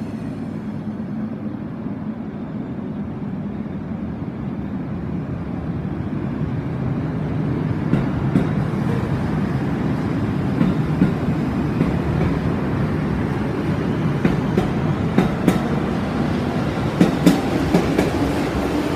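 Electric commuter train pulling out and running past along the platform. Its running noise builds steadily as it gathers speed, and from about halfway through the wheels clack over rail joints, faster and more often toward the end.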